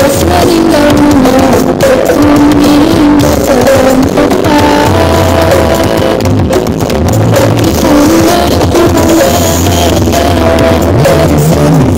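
Music blasting at very high volume from a large sound system during a sound-system battle, with deep bass notes and a melody line stepping from note to note over it.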